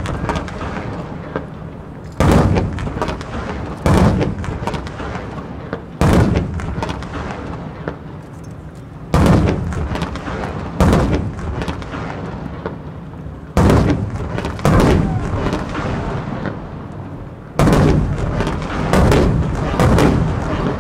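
Aerial firework shells bursting overhead: about ten loud booms, one to three seconds apart, each followed by a long rolling echo.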